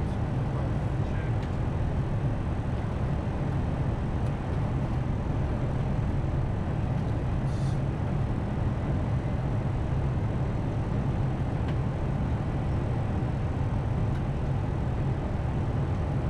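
Steady, deep rushing noise inside an Airbus A320 cockpit on final approach: airflow over the airframe mixed with the engines. It stays even and unbroken throughout.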